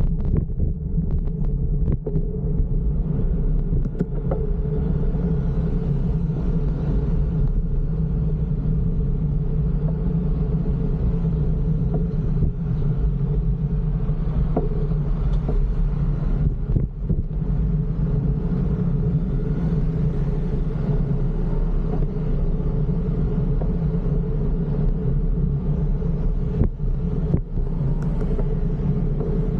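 Steady low rumble of a bike ride through city traffic: road and wind noise on the camera's microphone with motor vehicles running close by, and a few short knocks from bumps.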